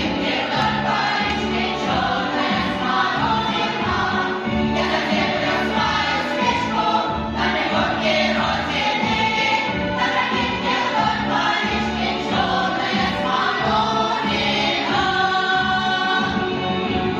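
Group of voices singing a song over an instrumental backing with a steady beat.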